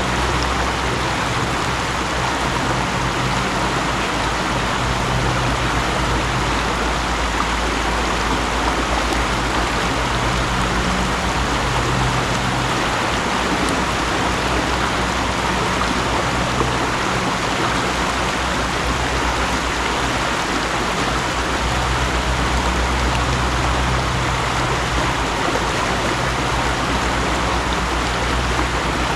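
Mountain stream flowing, a steady rush of water with a low rumble underneath that swells and fades.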